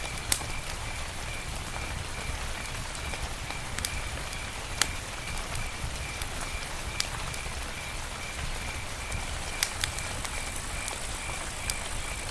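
Campfire burning: a steady hiss with sharp pops of wood cracking every second or two. A high, evenly pulsing call, a few pulses a second, runs behind it.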